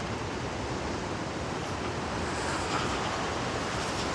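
Strong gusty wind rushing over the microphone in a steady, even rush with a constant low rumble.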